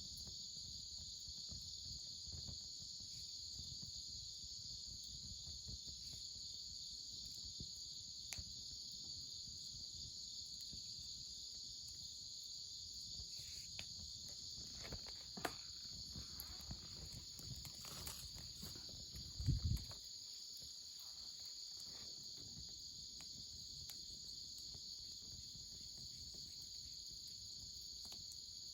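A steady, high chorus of crickets and other insects, with a few faint clicks and one short low thump about twenty seconds in.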